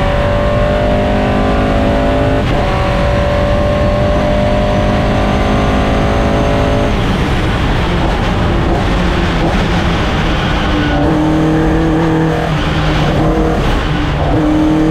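Race car's Vauxhall C20XE 2.0-litre four-cylinder engine running hard on track. The revs climb with a gear change about two and a half seconds in, and the note breaks off about seven seconds in. It returns at lower, steadier revs near the end.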